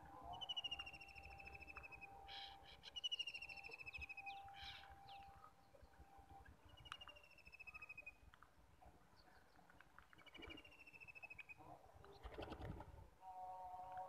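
A bird calling four times, about every three seconds: each call a drawn-out, slightly falling trill lasting about a second. A faint steady hum sits underneath, and there are a few short rustles.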